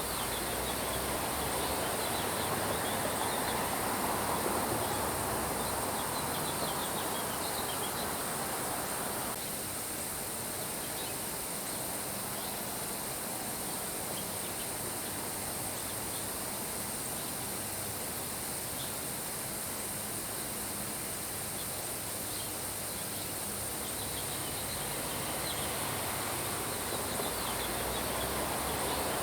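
Steady nature ambience: a continuous rain-like hiss with crickets chirping high and faint short bird chirps. A louder, lower layer of the hiss drops away abruptly about nine seconds in and swells back near the end.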